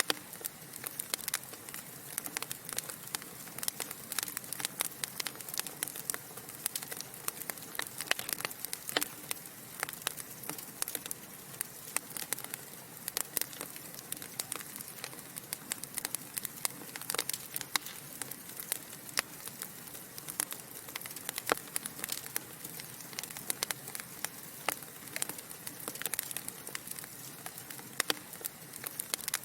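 Wood fire of burning logs in a fireplace crackling steadily, with many sharp irregular pops and snaps over a soft hiss.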